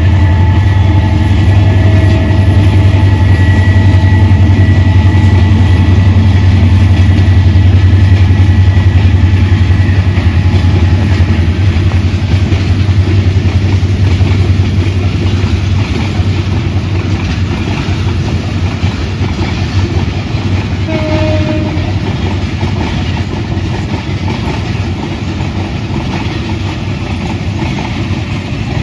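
Train running past with a loud, steady low rumble that slowly fades in the second half. A multi-tone horn sounds over it for the first ten seconds or so, and there is one short horn note about twenty seconds in.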